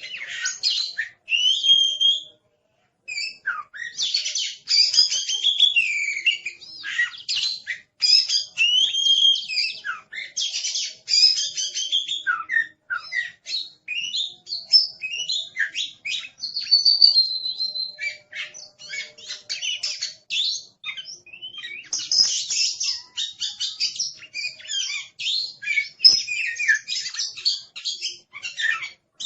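Oriental magpie-robin (kacer) in fierce, excited song: a noisy, fast run of varied whistles, trills and chattering notes. It breaks off for a moment about two seconds in, then goes on.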